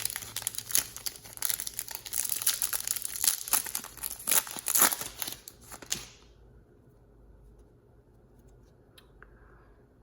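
A foil trading-card pack wrapper being torn open and crinkled in the hands, a dense crackle with sharp tearing strokes. It stops abruptly about six seconds in.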